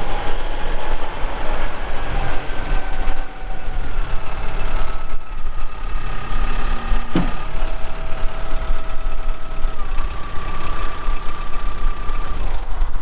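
Kubota M4-071 tractor's four-cylinder diesel engine running steadily, with a whine that shifts in pitch a few times and a single sharp click about seven seconds in.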